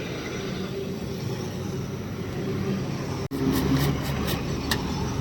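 A motor vehicle running steadily, a low hum. About three seconds in it cuts abruptly to a louder stretch with several sharp clicks.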